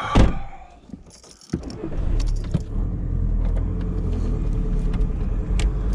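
A car door shuts with a loud thud, then after a pause of about a second the car's engine starts and runs with a steady low rumble.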